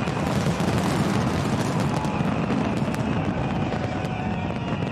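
Fireworks bursting in quick succession: a continuous rumble of booms laced with sharp crackles, thinning slightly near the end.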